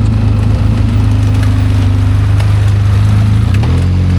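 ATV engine running at a steady speed while riding, its pitch dropping a little near the end as the machine eases off.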